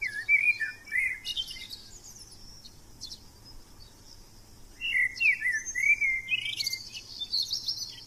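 Small birds chirping in quick, sliding calls, in two bouts: one at the start and one from about five seconds in.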